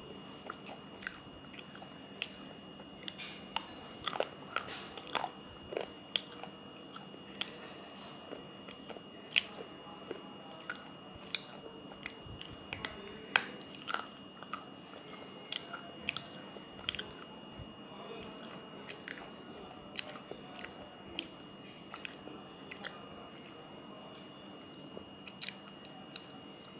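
A person biting and chewing pieces of baked clay kulhad cup, softened by soaking in water, close to the microphone: sharp, irregular crunches, one every second or so, a few of them much louder.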